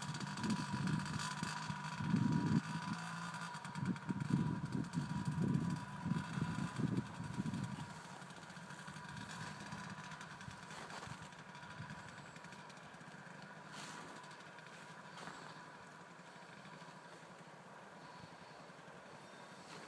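Small dirt bike engine, the throttle opened in surges for the first several seconds, then fainter and steadier as the bike moves away.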